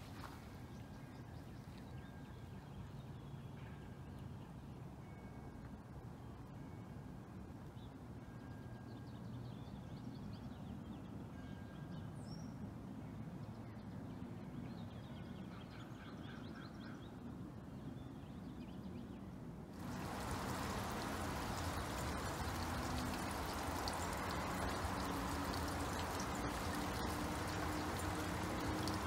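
Faint outdoor ambience with a few soft bird chirps, then about two-thirds of the way through an abrupt switch to steady rain: an even hiss of falling rain with water pouring down a cup-style rain chain.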